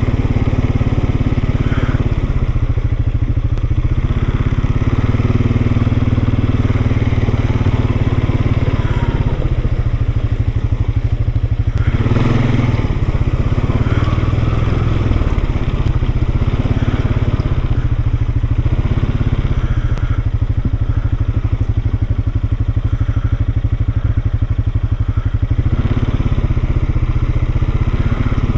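Engine of a small off-road vehicle running while riding a rough trail, its revs rising and falling again and again, with a brief louder noisy stretch about twelve seconds in.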